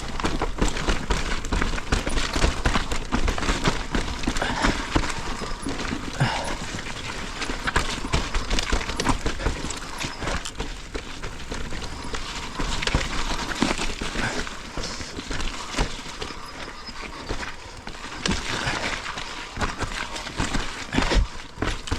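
Mountain bike riding down a rough, wet dirt trail: tyres rolling and skidding over dirt and roots, with the frame and chain rattling in frequent irregular knocks and clacks over a steady low rumble.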